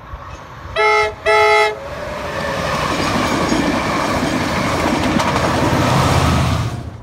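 Train horn sounded in two short blasts, then a locomotive-hauled passenger train passing close at speed, its rumble and wheel noise building up. The heavy diesel throb of a Class 67 locomotive at the rear is loudest near the end, then the sound cuts off suddenly.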